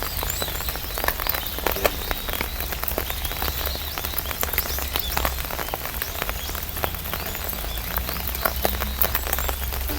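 Rain falling on an umbrella canopy: dense, irregular drop taps over a steady hiss of rain.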